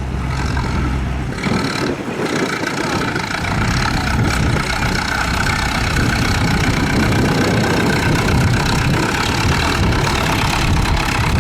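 Tractor engine running: a steady low idle hum for about the first second, then a louder, rough engine noise under load for the rest.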